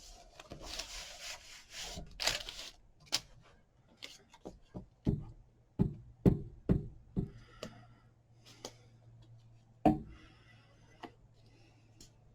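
Craft supplies being handled on a tabletop: rustling at first, then a string of sharp knocks and clicks as items are picked up and set down.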